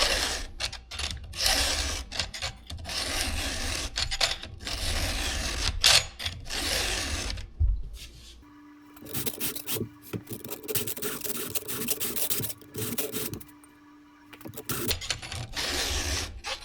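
Chainsaw chain being sharpened with a hand file, a series of short rasping strokes of file on steel cutters, with brief pauses between sets of strokes.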